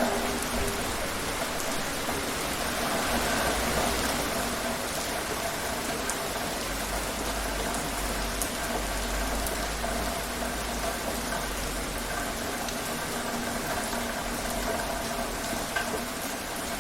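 Steady rain falling, an even hiss with scattered drop ticks, over a faint steady hum.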